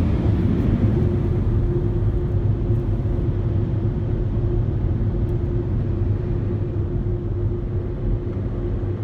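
Ryko Rocket car wash tunnel machinery running: a steady low rumble with one constant hum, easing slightly near the end.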